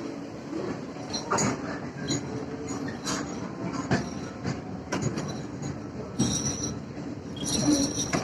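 Suburban electric local train running, heard from inside the coach: a steady rumble with wheels clacking over rail joints about once a second, and brief high-pitched wheel squeals near the end.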